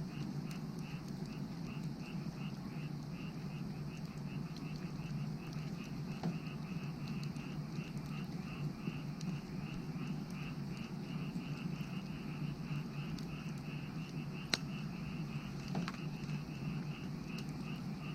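Frogs calling in a steady chorus, an even run of about three to four calls a second, over the crackle of a burning wood fire, with a few sharp pops, the loudest about three-quarters of the way through.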